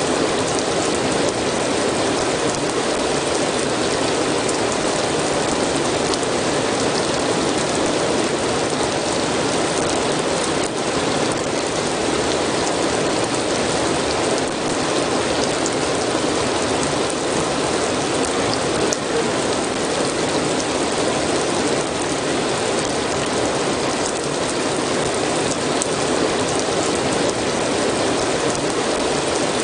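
Steady rain, a dense, even patter of drops that holds at one level throughout, with a few sharper single drop ticks.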